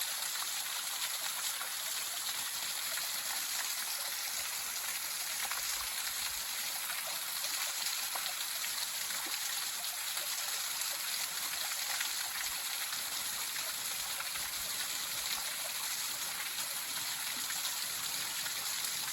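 Waterfall pouring steadily: an unbroken rush of falling water.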